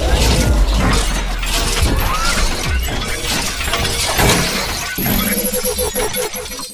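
Dense, loud crashing and shattering noise, with music in the mix.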